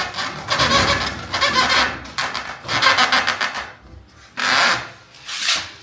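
Rubbing and scraping in four bursts, each a second or less long, with short gaps between them.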